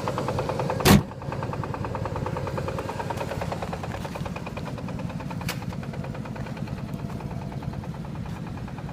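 Audi A6 C5's 2.8-litre V6 engine running with a steady, even knock, which one shop takes for a connecting rod and another for the flywheel. A brief loud thump about a second in.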